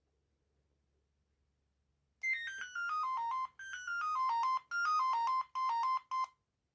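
Amstrad S288 mobile phone playing its power-off melody through its small speaker: a short electronic jingle of four phrases of falling notes, starting about two seconds in and stopping abruptly near the end.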